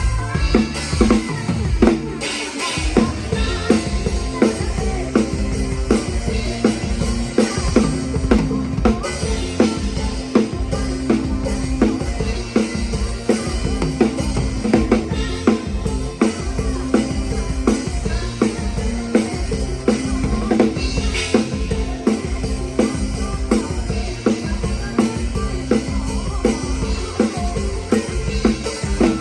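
PDP drum kit played live in a steady, driving beat of bass drum, snare and rimshots, with the band's bass and other instruments underneath.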